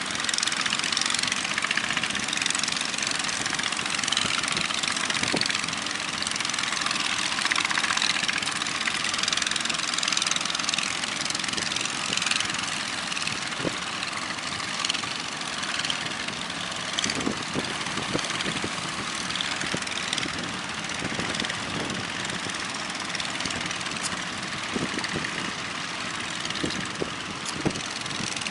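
A steady, unbroken roar of waves breaking on the beach, a hissing rush with no clear rhythm.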